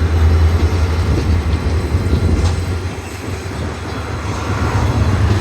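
Freight train passing, a steady low drone with rolling noise from the cars, easing slightly about three seconds in.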